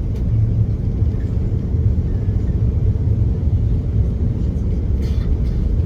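Steady low rumble inside the cabin of a Brussels Airlines Airbus A330-300 during arrival, with a faint brief rattle near the end.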